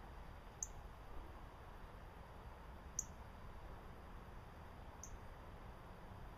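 A small bird gives a short, thin, high-pitched call note three times, about two seconds apart, over faint low background noise.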